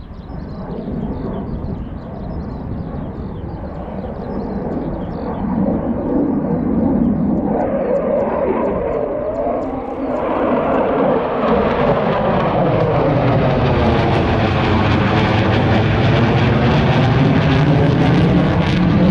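A fixed-wing aircraft flying in at an air show. Its engine noise builds steadily and has a sweeping, phasing quality as it comes closer, and it is loudest in the last few seconds.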